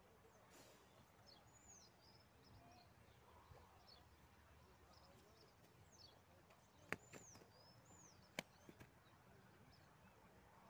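Near silence with faint bird chirps, short arching calls heard several times, and two sharp clicks about a second and a half apart past the middle.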